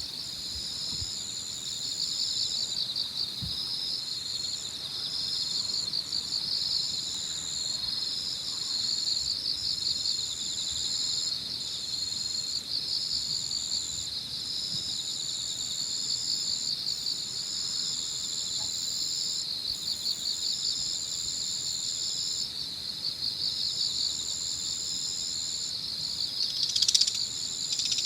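Evening chorus of crickets and other insects: a dense, pulsing trill underneath a steady high-pitched trill that stops and starts every second or two. A brief louder call cuts in near the end.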